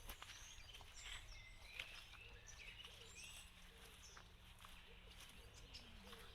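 Faint outdoor ambience: scattered short bird chirps and calls over a low steady hum, with a few faint clicks.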